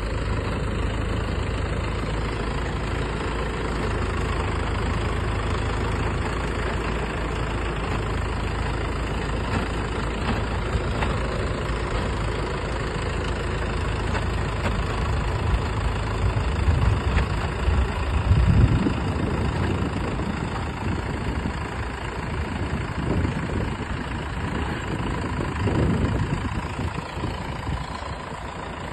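Tractor engine running steadily at idle, with a few louder surges about two-thirds of the way through and again near the end.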